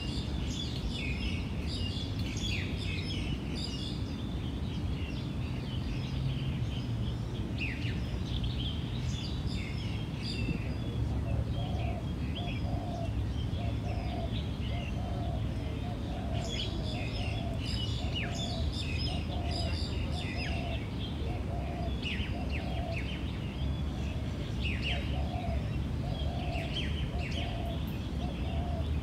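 Birds chirping and calling, many short high notes and quick falling sweeps, over a steady low rumble of outdoor background noise. From about twelve seconds in, a lower call repeats at an even pace.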